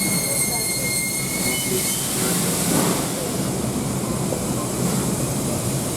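Train sounds from a steam-hauled passenger car: a steady low rumble with high, thin whine tones that fade out a couple of seconds in, and a hiss that swells around the middle.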